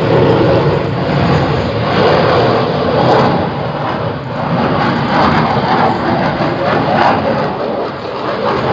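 F-16 Fighting Falcon's jet engine: loud, steady jet noise that swells and eases every second or two as the fighter flies its display.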